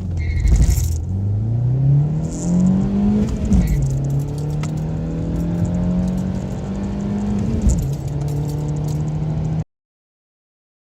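Volkswagen Golf Mk4 petrol engine under full-throttle acceleration. Its note climbs steadily and drops sharply at an upshift about three and a half seconds in, then climbs again to a second upshift near eight seconds, with some rattling early on. The sound cuts off suddenly near the end.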